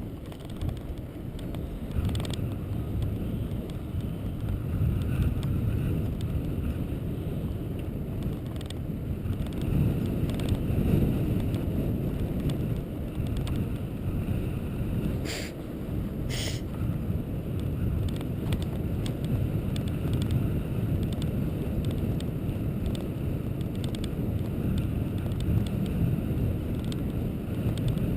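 Steady low rumble of road and wind noise while travelling along a road, with wind buffeting the microphone. Two short sharp clicks about fifteen and sixteen and a half seconds in.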